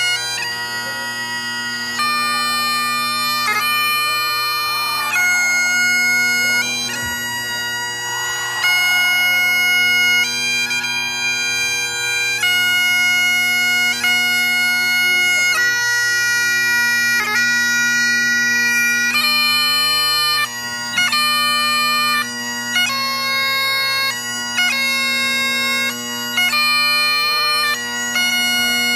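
Great Highland bagpipe playing a pibroch, a slow, solemn classical pipe tune. Steady drones sound under a chanter melody of long held notes, each change set off by quick grace notes.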